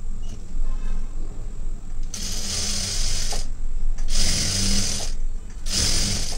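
Sewing machine stitching in three short runs, each starting and stopping abruptly, the first about a second and a half long and the last the shortest.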